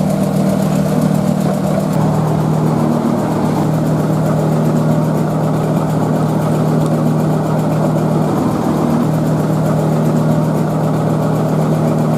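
Steady machine drone: a motor running with a strong low hum, its pitch stepping down slightly about two seconds in.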